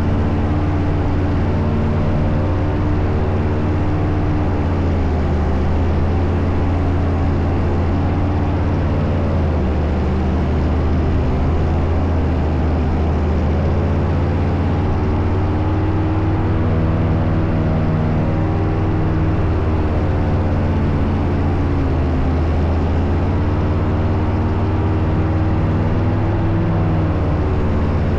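Powered paraglider's engine and propeller running steadily, its pitch drifting slowly up and down with the throttle.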